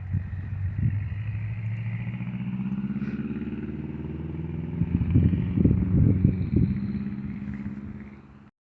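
A motor vehicle engine running, its pitch rising slightly, with gusts of wind buffeting the microphone for a couple of seconds in the middle; the sound cuts off abruptly near the end.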